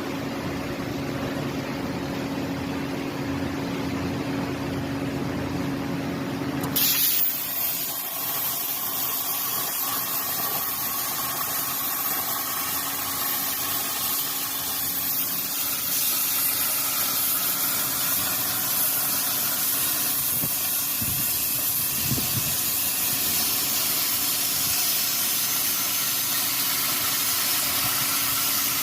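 CNC plasma cutter: a steady machine hum, then about seven seconds in the plasma torch starts and a loud, steady hiss of the cutting arc and air jet runs on.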